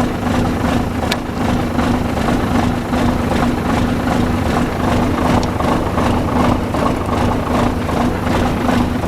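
Renault Major truck's MIDR diesel engine idling steadily, running smoothly after its injectors were repaired. A single short click about a second in.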